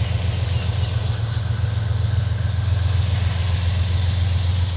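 Aurizon 2800-class diesel locomotive engine running steadily just after start-up, a low, even throbbing hum.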